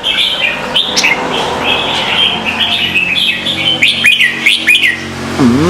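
Small birds chirping rapidly and continuously, many short high chirps overlapping. Right at the end comes a short lower call that rises and falls in pitch.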